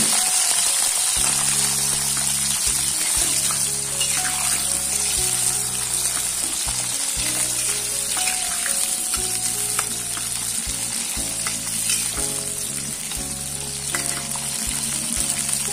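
Halved round eggplants frying in hot oil in a wok: a steady sizzle, with a spatula turning them near the end.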